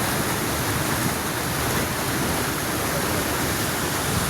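Steady, even rushing of water, with no distinct splashes or knocks standing out.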